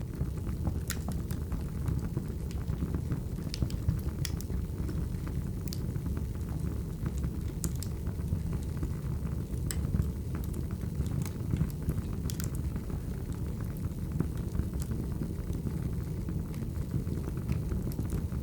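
Wood fire burning: a steady low rumble of flames with scattered, irregular sharp crackles and pops from the burning logs.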